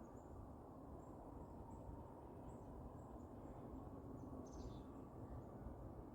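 Faint, very high-pitched bird chirps, short and repeated at irregular intervals, with a brief falling call about four and a half seconds in, over a low background rumble.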